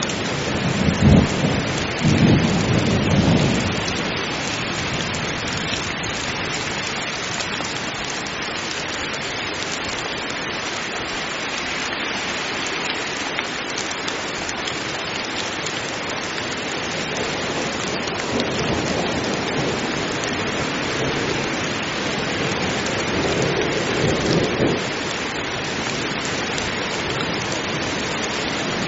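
Heavy rain falling steadily in a thunderstorm. Low rolls of thunder come in the first few seconds and again after about twenty seconds.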